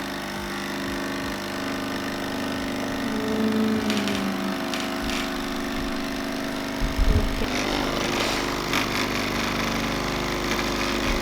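Nescafé Dolce Gusto capsule coffee machine's pump buzzing steadily with a hiss as it forces hot water through a milk pod into the cup.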